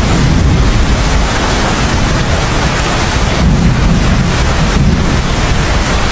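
Heavy, steady rain with low rumbles of thunder swelling briefly about halfway through.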